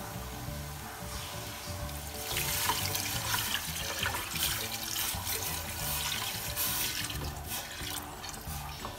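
A wooden spatula stirs frying spice paste in a stainless steel pot. About two seconds in, liquid is poured from a steel bowl into the pot in a steady splashing stream.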